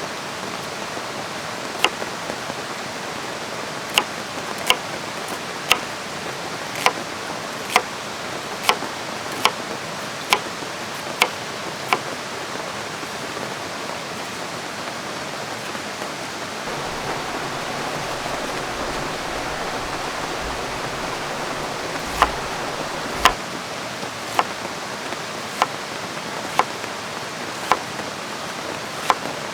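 Steady rush of a river and falling rain, with sharp single ticks and pops about once a second at uneven intervals, a few louder ones partway through.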